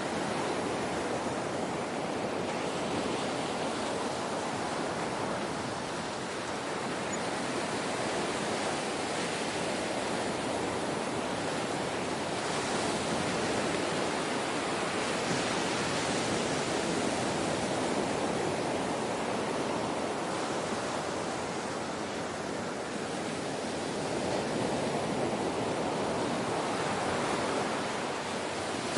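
Ocean waves washing in as a steady, unbroken rush that swells and eases slowly, a little louder through the middle of the stretch.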